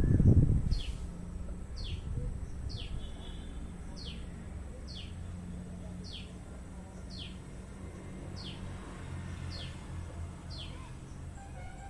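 A small bird repeating a short, high chirp that slides downward, about once a second. A brief low rumble sounds near the start.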